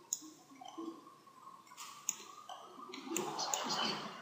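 Scattered clicks of a computer mouse and keyboard, a handful of separate sharp clicks over a few seconds.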